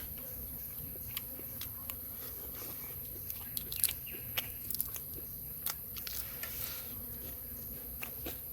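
Steady high-pitched insect drone in forest ambience, with scattered short clicks and taps, a cluster of them in the middle.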